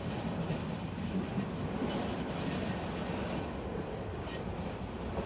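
Passenger train running along the rails: a steady rumble and rattle of the moving train.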